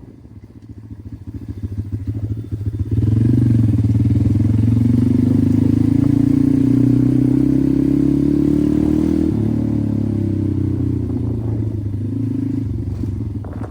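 Pit bike engine running as it rides, quieter for the first few seconds, then jumping louder about three seconds in, its pitch climbing slowly and dropping back a little past nine seconds.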